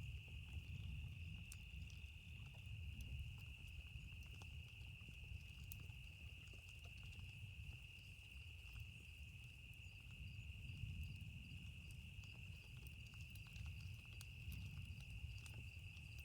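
Campfire crackling faintly with scattered small pops, over a low rumble and a steady high chorus of crickets.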